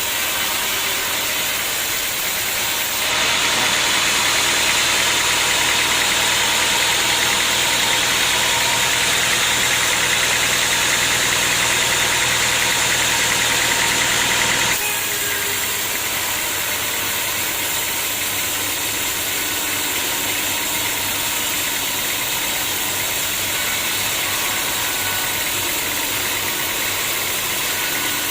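Sawmill saw running steadily, with a louder, harsher stretch of about twelve seconds, starting about three seconds in and stopping abruptly, as the blade cuts into the acacia log.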